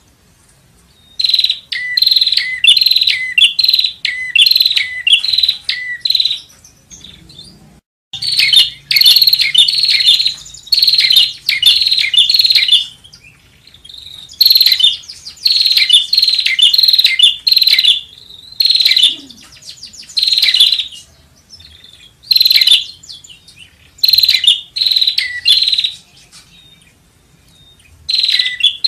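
Prinia (prenjak) song, phrase after phrase of rapid, sharp, high chirping notes, each phrase one to five seconds long with short gaps between; a lure recording for calling in wild prenjak.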